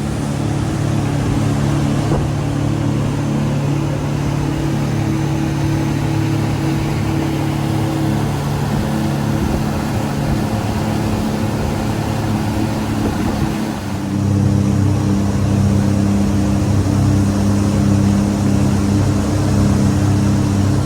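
Scarab 215 jet boat's engines running steadily under way, over a broad rushing hiss. About two-thirds of the way through, the engine note steps up in pitch and gets louder as the throttle is opened.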